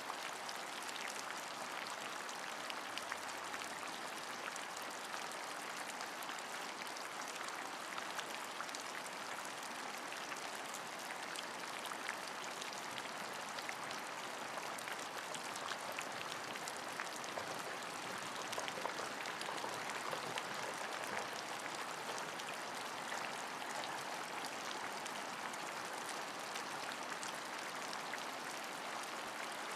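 Steady rain falling, a dense even hiss with many small drop patters throughout.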